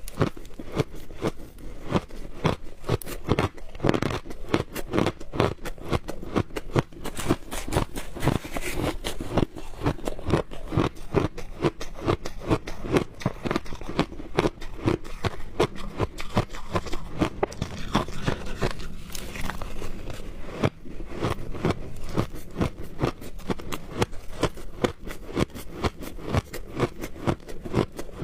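Close-miked biting and chewing of frozen shaved ice: a dense, steady run of crisp crunches, several a second.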